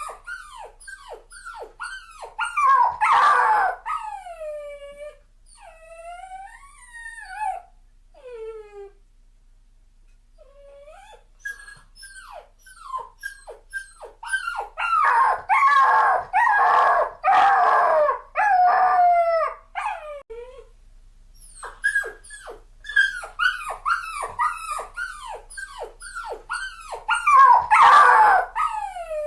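Dog crying: quick, high-pitched whimpers that drop in pitch, several a second. They swell into louder, denser howling cries about three seconds in, again midway, and near the end, with a short lull between.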